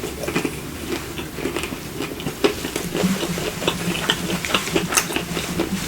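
Close-miked chewing of fried food: quick, irregular wet clicks and crunches of a mouth eating.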